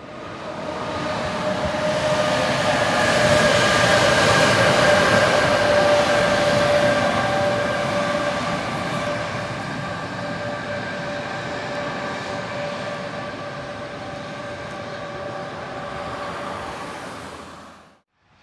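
An electric train running past on the line: a steady whine at several pitches over the rumble of the wheels on the rails. It is loudest a few seconds in and slowly dies away.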